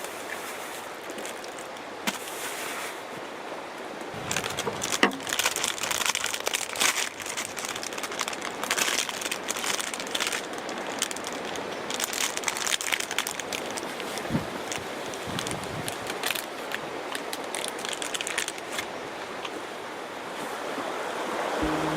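Steady wash of waves, with a long run of crinkling and crackling handling noises from about four seconds in until near the end.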